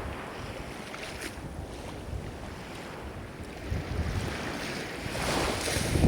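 Ocean waves washing in, with a wave surging up and breaking near the end. Wind rumbles on the microphone underneath.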